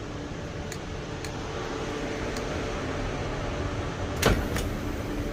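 Steady low rumble and hum inside a KTX high-speed train carriage, with a few light clicks and one louder knock about four seconds in.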